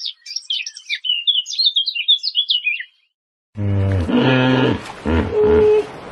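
Small songbird singing a fast, twittering run of high chirps that stops about three seconds in; after a short silent gap a loud, deeper pitched voice or animal call begins.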